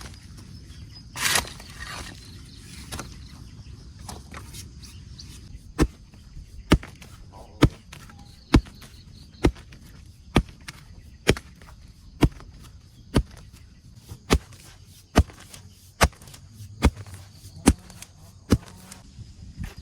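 A tool striking wood in a steady rhythm, about one blow a second, beginning about six seconds in after some rustling.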